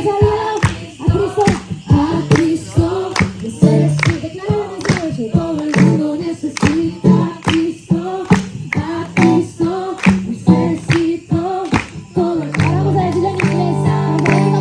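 A group singing a song together over a steady percussive beat of sharp strokes. About three quarters of the way in, sustained held chords join underneath.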